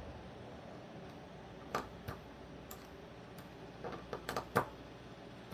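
Small, scattered clicks and taps of folding-knife parts and washers being handled and fitted during reassembly, with a quick run of several clicks about four seconds in.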